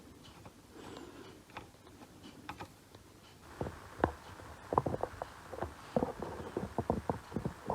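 Light irregular clicks and taps of a soldering iron tip working along a processor's fine pins to clear solder bridges. About halfway through a faint scratchy noise sets in and the taps grow more frequent and sharper.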